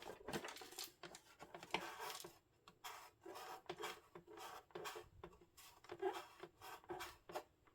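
Faint handling noise from a portable radio cassette recorder being turned over and moved by hand: irregular short scrapes and rubs with light clicks and knocks.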